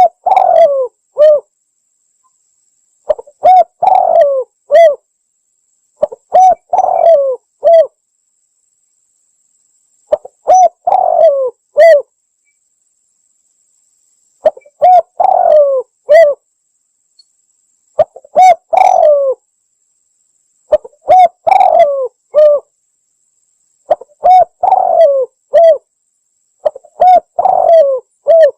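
Spotted dove (tekukur) cooing as a lure call. A phrase of several coos, the last one set apart, repeats about every three to four seconds, with silence between phrases.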